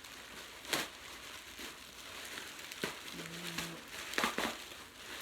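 Bubble wrap and packing being handled and pulled apart, crinkling and rustling, with three sharp crackles.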